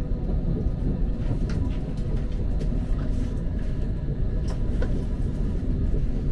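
PKP Intercity passenger train rolling into the station, heard from inside the carriage: a steady low rumble with a few faint clicks.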